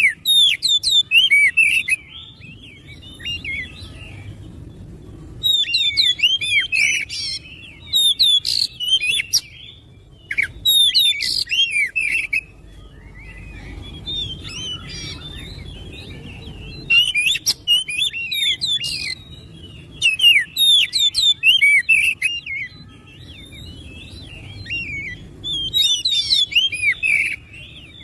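Oriental magpie-robin (kacer) singing: loud bursts of rapid, varied gliding notes, each burst a few seconds long, separated by short pauses.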